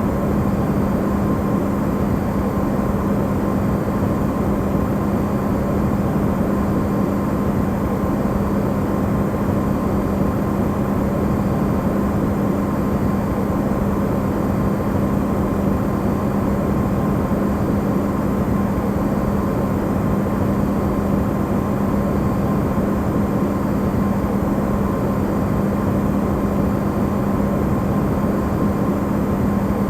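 Electrolux refrigerator running, recorded amplified: a steady hum, one constant low tone over an even rushing noise, unchanging throughout.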